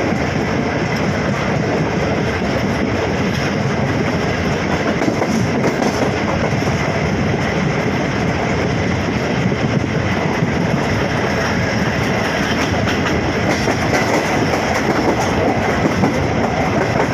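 A train running along the track, with a steady, unbroken rolling noise and a faint high tone held underneath.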